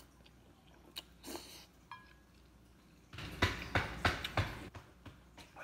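Close-up mouth noises of a man chewing a last mouthful of spicy instant noodles: a few faint clicks, then, about three seconds in, a cluster of loud smacking, breathy sounds as he chews and puffs out air.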